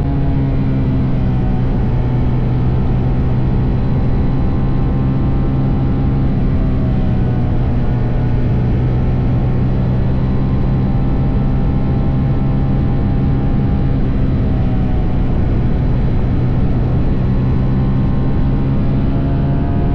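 TVS Apache RR 310's single-cylinder engine, on its stock exhaust, running at a steady cruise under a rider. The engine note dips slightly and recovers a few times, over a steady rushing noise.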